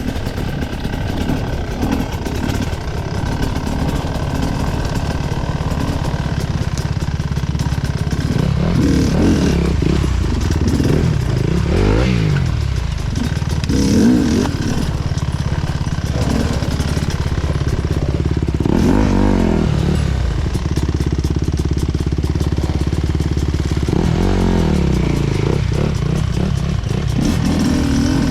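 Off-road enduro motorcycle engine running under load, its revs rising and falling again and again as the throttle is opened and closed.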